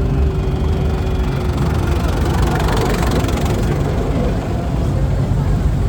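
Car engine idling with a steady low rumble, and a faint tone that sinks slowly in pitch over the first couple of seconds.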